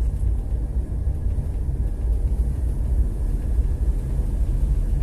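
Ship's engine running as a steady low rumble.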